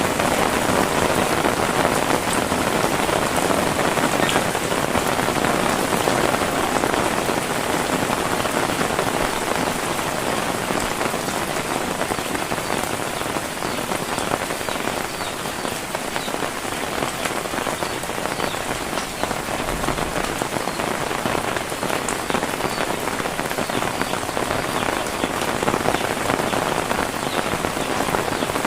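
Heavy rain falling steadily, a dense even hiss that eases slightly midway.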